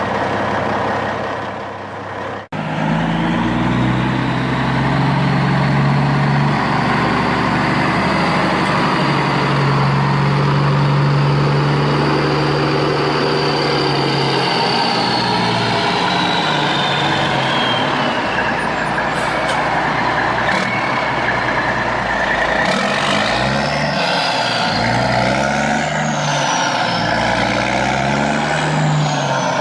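Heavy truck engine running. It starts abruptly about two and a half seconds in, holds a steady note, then rises and falls repeatedly in the last third as it revs.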